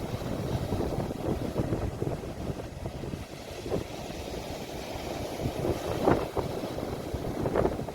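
Sea waves washing at the shore, recorded on a phone, with wind buffeting the microphone into a low, gusty rumble and two louder bursts, about six seconds in and near the end.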